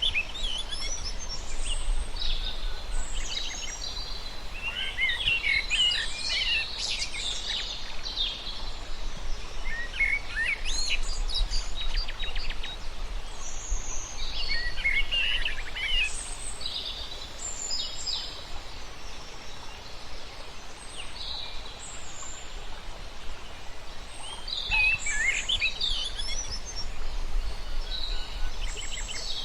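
Several wild birds chirping and singing, short calls and trills overlapping in bursts, over a steady low background rumble.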